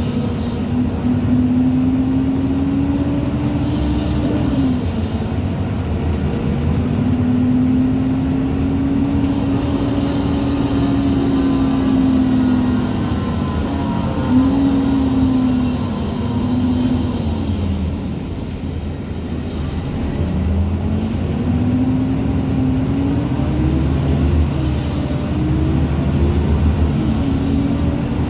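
MAN Lions City G articulated bus's differential and gearbox whining under way, a single tone that climbs and sags with road speed and falls away sharply a few times, over a low engine and road rumble.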